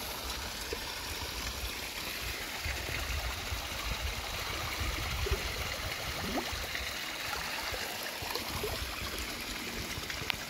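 Steady rushing of flowing water, with a fluctuating low rumble underneath.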